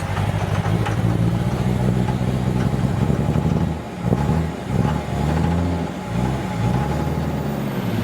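Dodge Cummins diesel pickup engine running under load, steady at first, then revving up and easing off several times from about halfway through.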